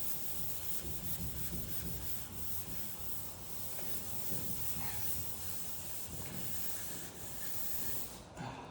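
Hand sanding block rubbed back and forth over a primed steel body panel, blocking the primer to find and take down high spots. The strokes stop about eight seconds in.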